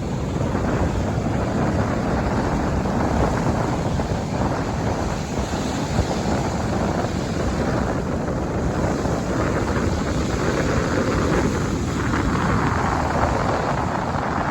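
Steady wind buffeting the microphone, with waves washing on the beach beneath it.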